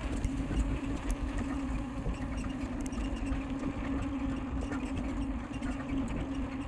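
Bicycle being ridden at speed: a steady hum over a rough low rumble, with a few faint clicks.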